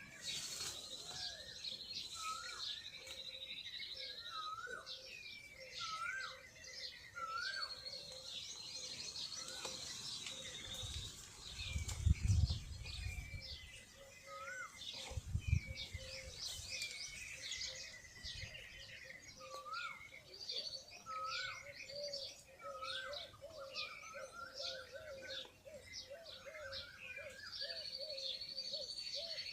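Several birds calling and singing together: high trills, short repeated upswept whistles and a steady run of lower notes. There are two low thumps about twelve and fifteen seconds in.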